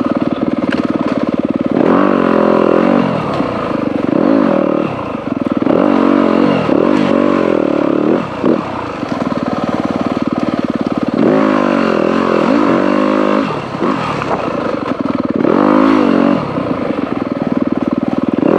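Dirt bike engine being ridden over trail, revving up and easing off again and again as the throttle is worked, with a few steadier stretches.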